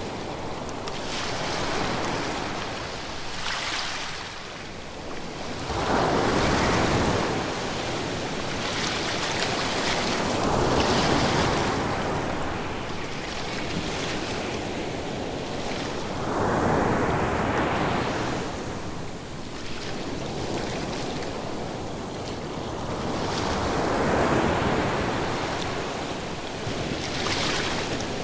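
Ocean waves breaking one after another. Each is a rushing surge that swells and fades, about every five to six seconds.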